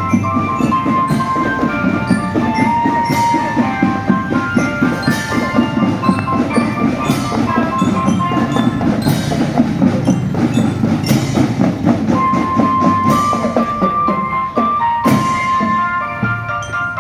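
Indonesian marching drum band playing a tune: drums beating steadily under a melody of held high notes.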